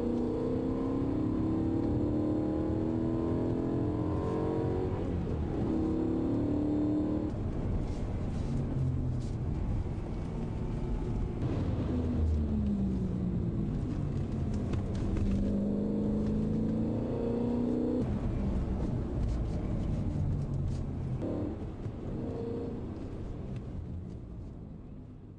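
BMW E92 M3's 4.0-litre V8 driven hard, its revs climbing through several upshifts, dropping away in a long falling glide about halfway through, then climbing again before the sound fades out near the end.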